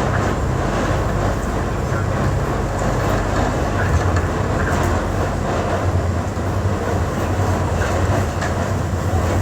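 Steady low rumble of a moving vehicle, with continuous running noise.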